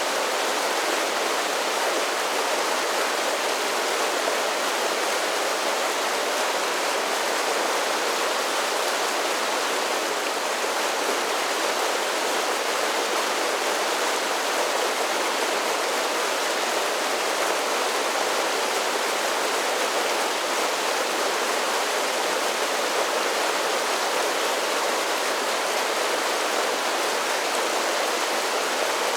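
Mountain creek water cascading down a series of small falls: a steady, unbroken rush of splashing water.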